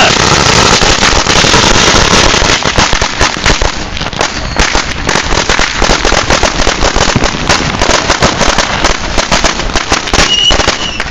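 Firecrackers going off in rapid, unbroken succession, a dense crackle of loud bangs that thins slightly after about four seconds. A thin, steady high tone comes in near the end.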